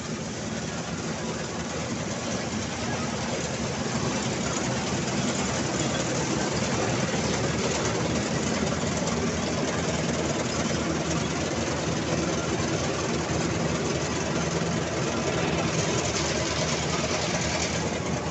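Mahindra 275 XP Plus tractor's diesel engine running steadily under harvesting work, a steady engine drone under a dense machinery hiss, growing a little louder over the first few seconds.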